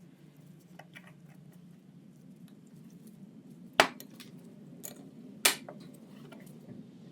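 Hand tools and small metal parts knocking and clicking during work on a kitchen ventilation fan motor: scattered light ticks, with two sharp knocks a little under two seconds apart in the middle.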